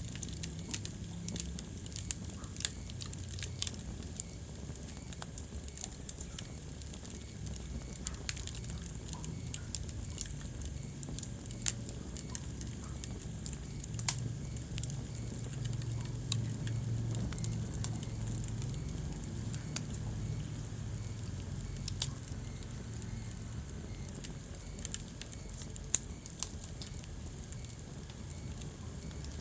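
Wood fire burning in a fireplace: a steady low rumble with irregular crackles and sharp pops, the loudest pop about 26 seconds in.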